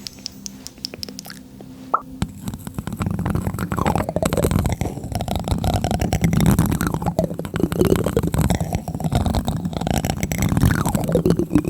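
Plastic spoon tapping on a microphone, close up: rapid, dense taps with a deep boomy rumble from the mic body, starting suddenly about two seconds in after a quieter opening.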